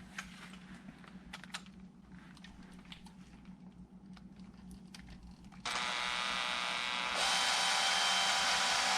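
A few light handling clicks, then a small electric screwdriver or drill motor whining steadily as it drives a screw home. About seven seconds in it speeds up and gets louder, and it stops near the end.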